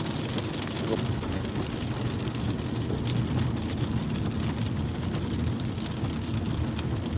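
Heavy rain on a moving car, heard from inside the cabin as a steady patter over a low, constant rumble of road and engine noise.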